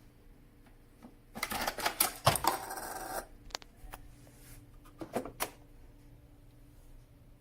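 Hard objects being handled: a second and a half of rattling and clicking starting about a second in, then a few separate sharp clicks.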